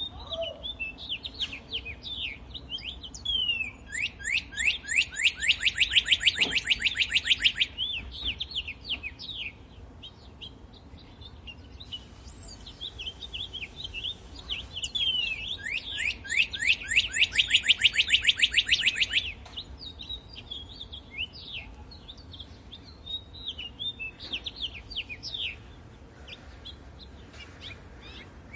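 Songbirds singing. Two long, rapid trills of repeated down-slurred notes, each lasting a few seconds, stand out over scattered short chirps and whistles.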